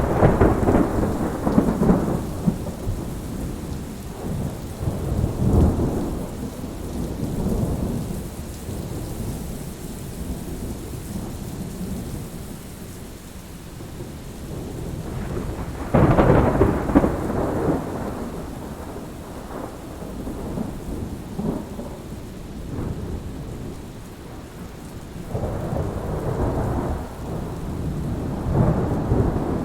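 Thunderstorm: steady rain with repeated rolls of thunder, one at the start, another about five seconds in, a sudden loud peal about sixteen seconds in, and more rumbling near the end.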